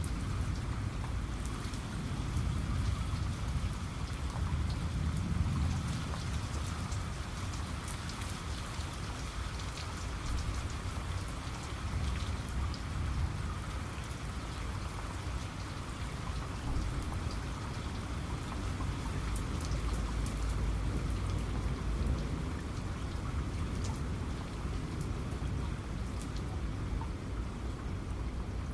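Steady heavy rain, with many separate drops ticking on a surface, and low rumbles of distant thunder swelling about five seconds in and again past the twenty-second mark.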